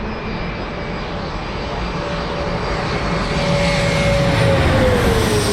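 Jet airliner engines passing close by: a rushing engine noise that grows louder, while the engine whine slides down in pitch as the aircraft goes past, near the end.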